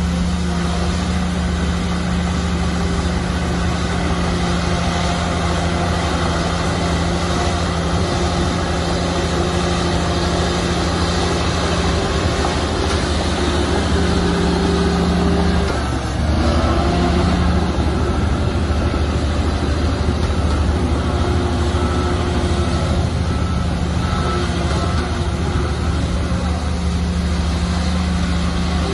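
Heavy diesel engine of earthmoving machinery running steadily under load, its note dipping and shifting briefly about sixteen seconds in.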